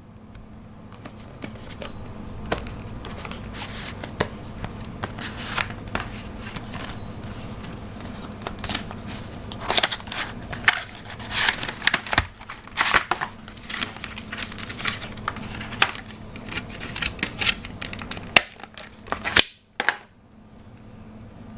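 Hands unpacking a boxed USB modem kit: scattered clicks, taps and crinkling of cardboard and plastic packaging, busiest in the middle, over a steady low hum.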